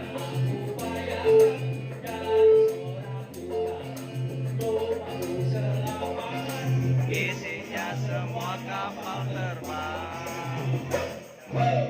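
Instrumental passage of a song by an Indonesian orkes moral (dangdut-style) band, with a steady pulsing bass beat and a wavering lead melody line.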